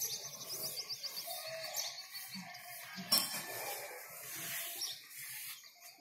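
Small birds chirping, with a rapid high trill in the first second.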